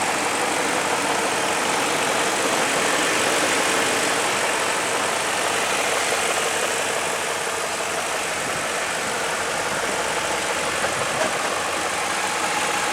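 1999 BMW 540i's 4.4-litre V8 idling steadily.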